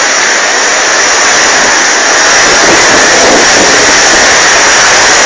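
Typhoon-force wind blowing, a loud, steady rush of noise with no pitch to it that builds slightly about two seconds in.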